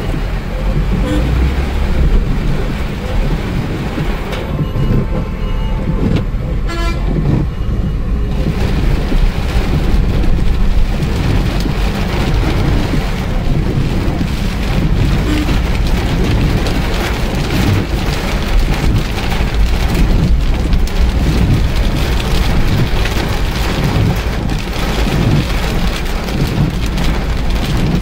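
Heavy rain falling on a vehicle's glass and body, heard from inside, over a deep steady rumble of traffic. A horn sounds in a few short honks about five to eight seconds in.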